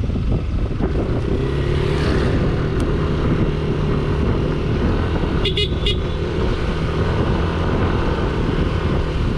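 Road noise on a moving motor scooter: wind on the microphone and a steady engine drone, with a quick run of short high-pitched beeps or toots a little past the middle.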